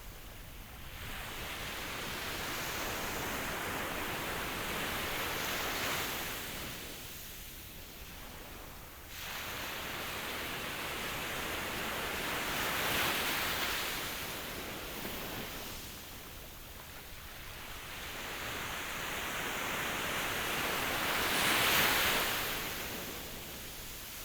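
Ocean surf: three waves in turn, each swelling over several seconds and then ebbing away.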